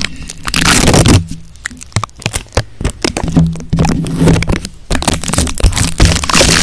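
Close-miked ASMR trigger sounds: dense, irregular crackling and scratching, full of small clicks, that thins out for a couple of seconds after about one second in and then picks up again.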